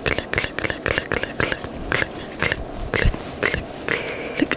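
Close-miked ASMR mouth sounds: quick, sharp tongue and lip clicks with wet smacks, about four a second, made to sound like invisible buttons and switches being pressed.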